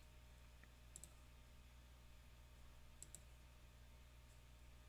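Near silence over a low steady hum, with soft computer mouse clicks: a quick pair about a second in and another about three seconds in.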